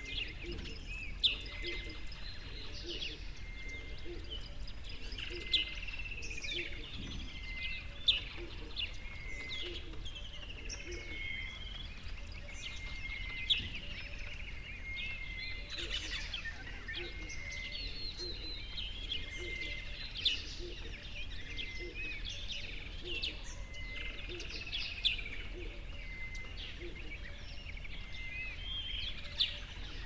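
Small birds chirping and twittering continuously over a steady outdoor background hum, with a repeating short high note. A few brief sharp clicks stand out above the birdsong.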